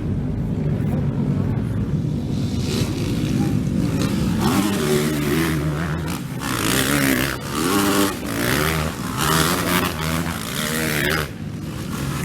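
Racing motorcycles at speed, engines revving repeatedly up in pitch and dropping back at each gear change, growing louder after a couple of seconds and falling away near the end.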